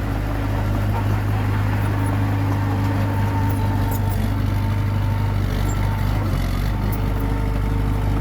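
Komatsu D21P bulldozer's diesel engine running steadily under load, with a few faint clanks.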